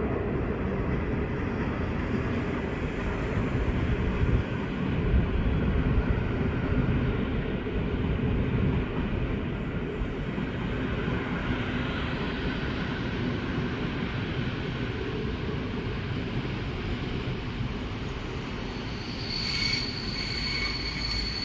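Train running through the station, a steady low rumble; a high, thin steady tone sets in near the end.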